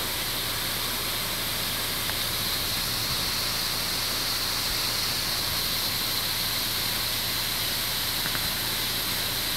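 Small waterfall: a stream spilling down a rock face, giving a steady rushing hiss of falling water.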